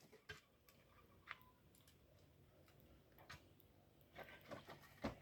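Near silence, broken by a few faint scattered clicks and a small cluster of them near the end.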